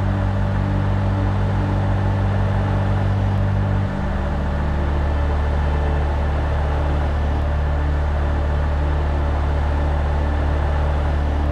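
A heavy truck running, heard as a steady, even noise of engine and road, over ambient music with low held notes that change about four seconds in.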